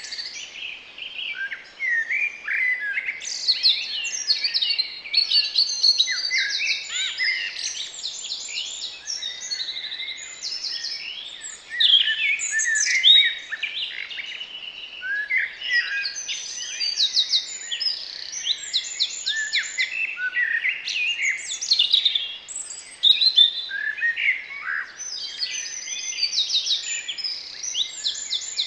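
Several small garden birds singing and calling at once: a dense, unbroken chorus of overlapping chirps, fast trills and quick rising and falling phrases.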